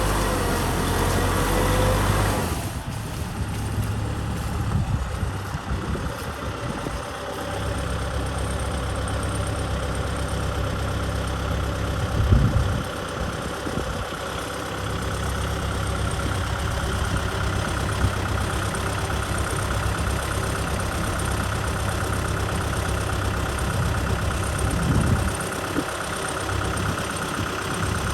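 Kubota M6040 tractor's diesel engine running steadily. Its sound changes abruptly about two and a half seconds in, and a brief louder knock comes near the middle.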